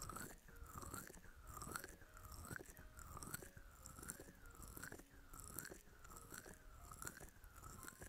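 Close-miked ASMR scratching and brushing across a microphone in a steady rhythm, about ten strokes, roughly one every 0.8 seconds.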